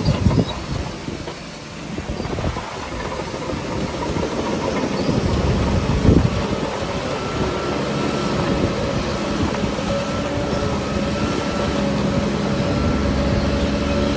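Heavy diesel engine of a Shantui bulldozer working, the engine loading up about five seconds in, with a sharp clank at the start and another about six seconds in.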